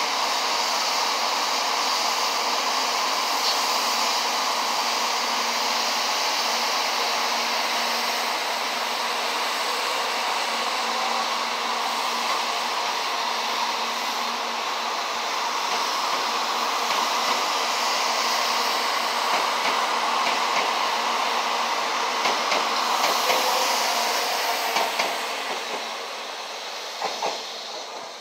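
JR 923-series Doctor Yellow Shinkansen inspection train running along the track: a steady rush of running noise with a faint low hum, dropping away over the last few seconds as the train pulls away.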